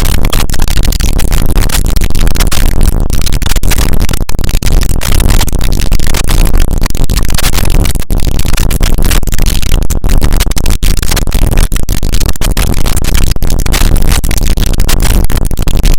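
Harsh noise music: a dense, distorted wall of noise at full volume with a heavy low end, cutting off abruptly at the end.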